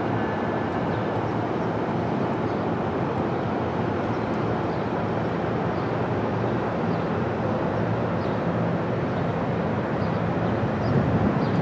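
A train running past at a steady speed, a continuous even rumble with a faint low hum.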